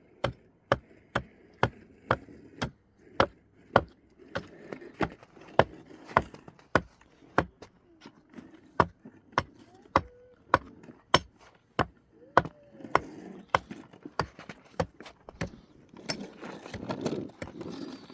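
Repeated chopping blows, about two a second, each a sharp knock, keeping an even rhythm and stopping shortly before the end.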